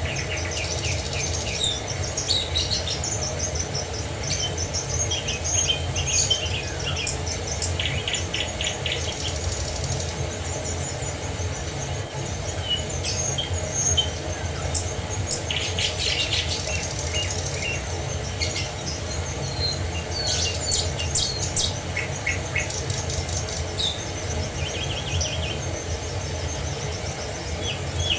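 Several songbirds chirping and singing, with quick trills around 8 and 16 seconds in, over a steady low rush of falling water.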